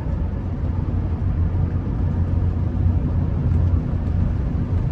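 Car interior noise while driving: a steady low rumble of engine and road noise heard from inside the cabin.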